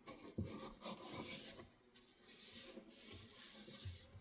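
Faint rubbing and wiping strokes as the metal switch housing of a ceiling fan is scrubbed clean by hand, with a couple of soft knocks from handling it.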